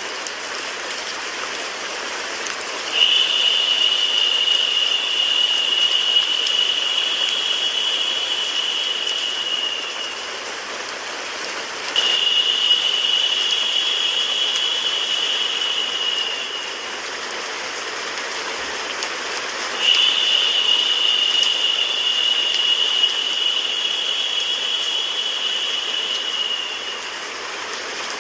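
Steady rain-like hiss mixed with white noise. A brighter, higher hiss swells in three times, about every eight seconds, holds for several seconds each time, then drops back to the steady wash.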